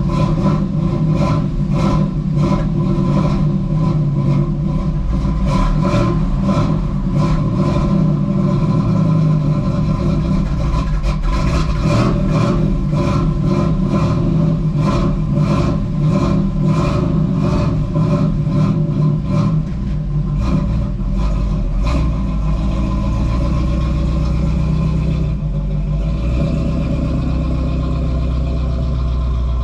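1986 Camaro Z28's V8 with an Edelbrock 1406 600 cfm carburetor running just after a cold start at 44°, with no choke working, so it runs without choke enrichment. It pulses about twice a second, then settles to a steadier idle about 25 seconds in.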